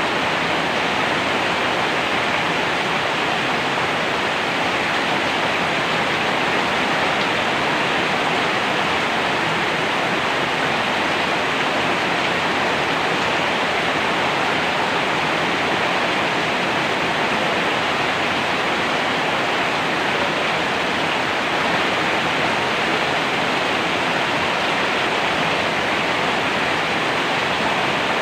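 Heavy rain falling steadily: a dense, even hiss with no breaks, drops or thunder.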